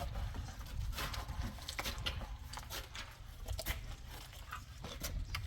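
Irregular sharp knocks and clicks, several a second at uneven spacing, over a steady low rumble.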